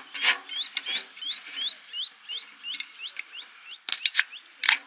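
A bird calling a regular series of short rising chirps, about two or three a second, slowly spacing out and fading, over several sharp crackles, the loudest near the end.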